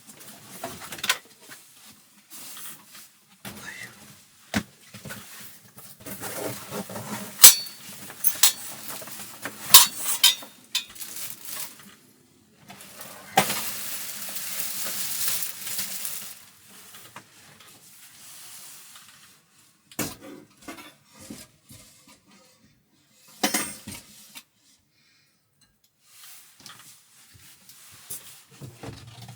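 Dishes and utensils clinking and knocking in short irregular clatters, with a steady hiss lasting a few seconds about halfway through.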